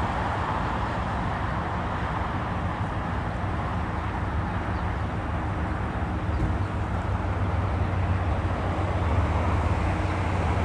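Steady rumble of a jet airliner's engines, the low rumble growing stronger in the second half.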